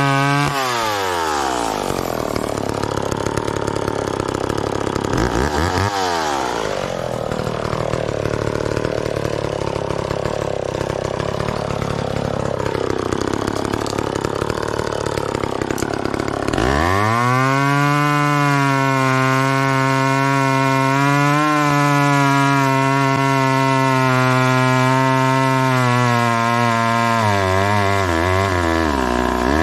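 Chainsaw running: its pitch drops at the start, wavers at a lower speed for about fifteen seconds, then climbs sharply to a steady high speed and falls off near the end.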